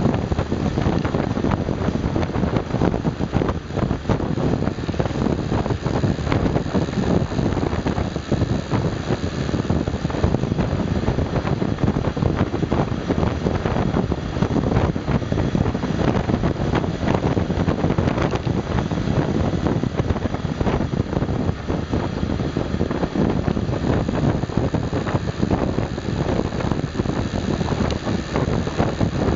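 Honda Super Cub 110's small single-cylinder four-stroke engine running steadily while the bike is ridden uphill, buried in heavy wind noise on the microphone.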